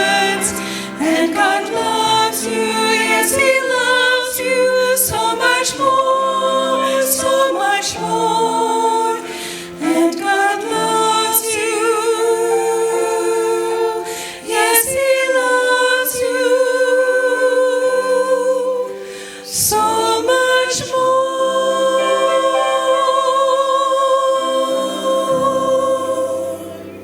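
Women's vocal ensemble singing with piano accompaniment, ending on a long held chord near the end.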